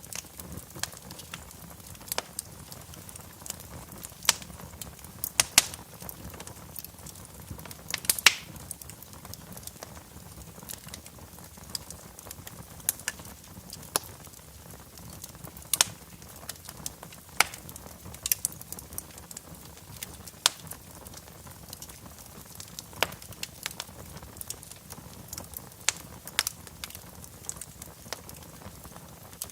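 Wood fire crackling in a fireplace: a steady low hiss with irregular sharp pops and snaps every second or two.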